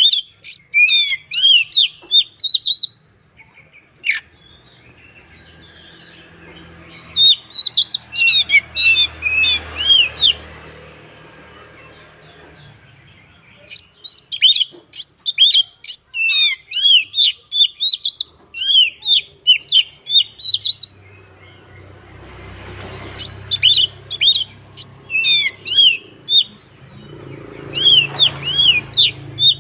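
Oriental magpie-robin (kacer) singing a fast, full song of rapid sharp chirps and whistles, the lively 'gacor ngobra' singing keepers prize. It comes in four runs separated by short pauses.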